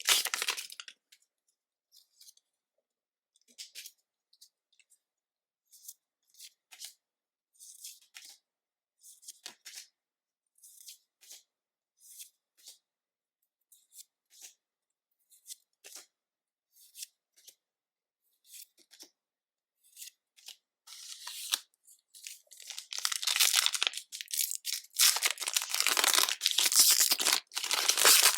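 Short, scattered soft flicks of trading cards being handled one by one for about twenty seconds. Then, near the end, several seconds of loud crackling and tearing as a foil Pokémon 151 booster pack is ripped open.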